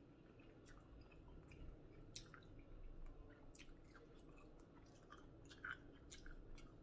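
Faint chewing of a person eating: scattered, irregular wet mouth clicks.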